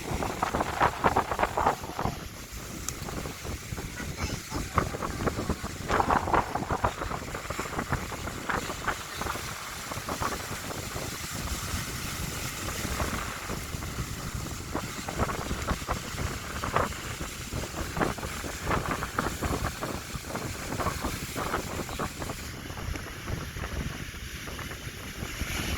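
Wind buffeting the microphone in irregular crackling gusts over a steady rush of sea surf.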